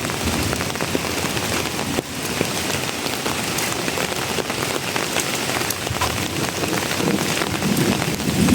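Steady rain falling, a dense hiss with many fine drop ticks, with a low rumble building near the end.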